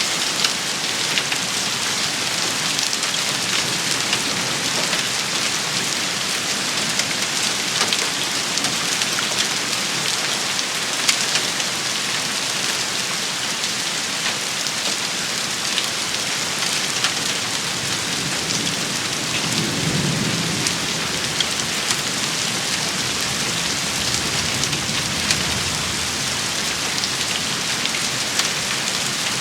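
Steady rain shower, a dense even hiss with scattered sharp drop impacts. A brief low rumble swells up about two-thirds of the way through.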